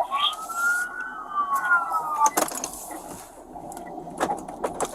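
Emergency vehicle siren wailing, one slow rise and fall in pitch lasting about two seconds, followed by a few short knocks.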